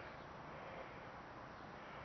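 Steady, faint rush of wind and tyre noise from a bicycle ride, with no distinct events.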